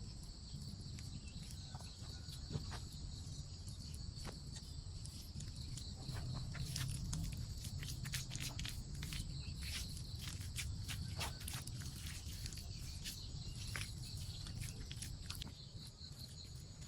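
Insects trilling steadily in the forest, under irregular clicks and light knocks that come thickest in the middle.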